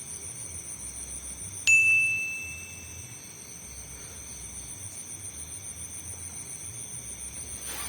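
Crickets chirping steadily, and about two seconds in a small bell dings once, its ring fading over about a second and a half.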